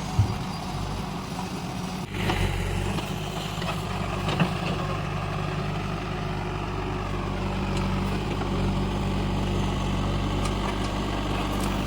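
Heavy diesel engine running steadily, getting louder about two seconds in, with a few short clanks.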